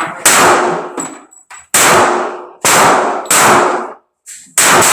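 Five handgun shots fired at an uneven pace, each sharp crack trailing off in a short echo.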